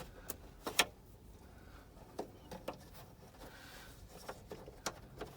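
Scattered light clicks and taps of hands working the glove box latch's plastic parts and screws, with one sharper click a little under a second in.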